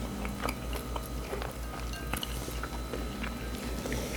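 Close-miked chewing of shrimp, with many small wet clicks and smacks from the mouth, over a steady low hum.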